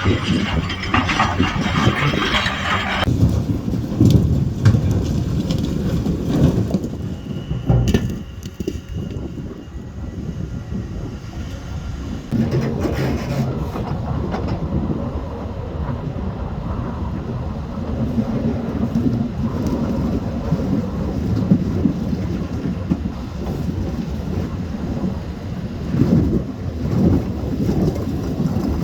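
Heavy diesel engine of a wheel loader running with a low, steady rumble and some wind noise. It dips about eight seconds in and comes back up at around twelve seconds.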